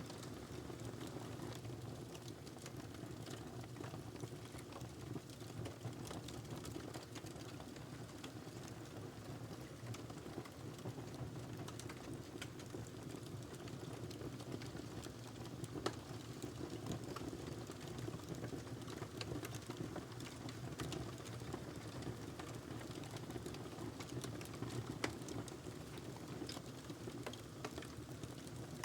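Log fire burning in a fireplace, crackling with a steady stream of small pops and ticks over a low hiss, and two sharper snaps, one a little past halfway and one near the end.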